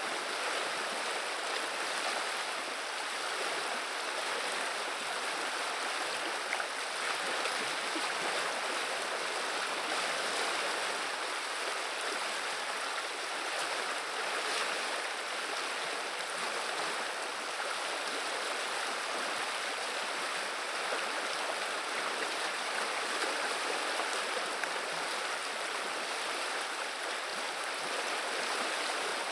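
Viliya river water running with a steady babble, an even rushing hiss with no breaks.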